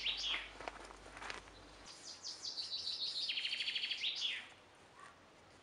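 A songbird singing: a phrase of high notes running into a fast trill and ending in a falling flourish, sung again about two seconds in, with short separate chirps in between. It goes quieter for the last second or so.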